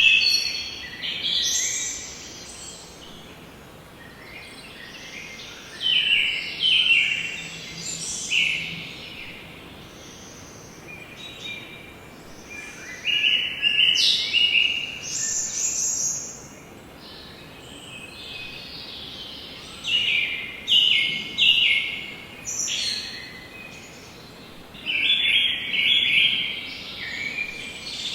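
Forest birds singing, with song phrases coming in bursts every few seconds over a steady background hiss.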